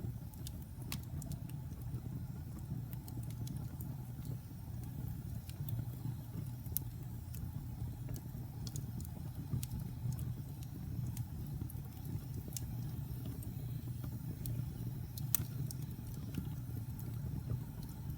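Wood fire burning in a fireplace: scattered sharp crackles and pops over a steady low rumble, with one louder pop about fifteen seconds in.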